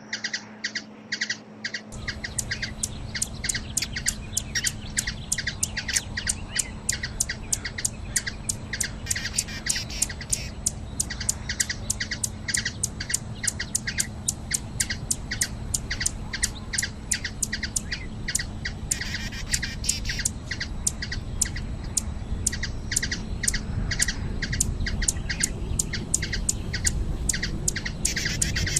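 Hummingbird giving a long series of sharp chip calls, about three a second, over steady background hiss.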